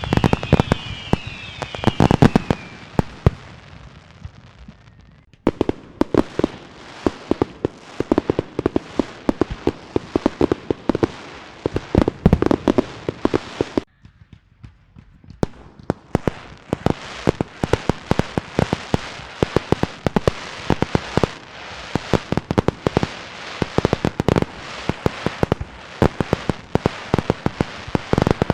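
Fireworks and firecrackers: rapid strings of sharp bangs and crackling pops, with several short falling whistles in the first few seconds. The popping stops abruptly about five seconds in and again for about a second and a half near the middle, then resumes just as densely.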